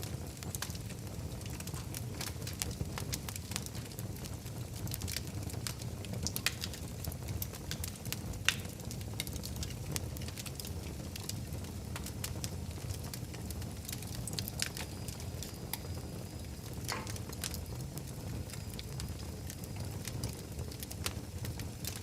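Wood fire burning in a fireplace: a steady low rumble of flames with irregular crackles and a few sharper pops.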